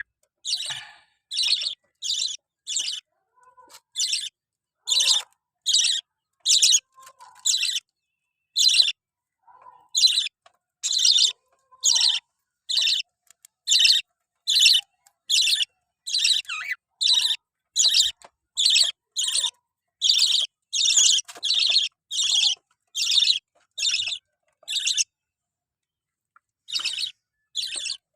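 Lovebirds chirping: a long run of short, high calls, repeated about once or twice a second with a few brief pauses.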